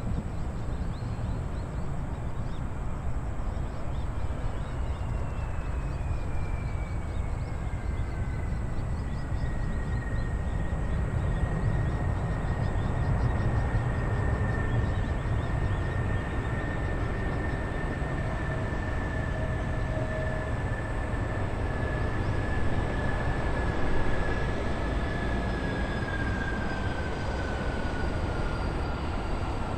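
Airbus A330 airliner's jet engines: a steady low rumble with a thin whine that falls in pitch, holds level for a long stretch, then falls again near the end.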